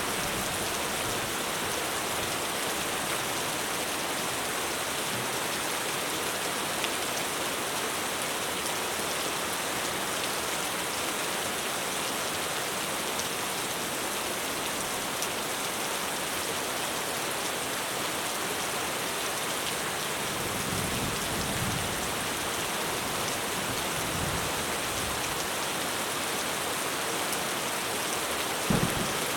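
Heavy rain falling steadily on a roof. A faint low rumble comes about two-thirds through, and a couple of sharper drips or knocks land near the end.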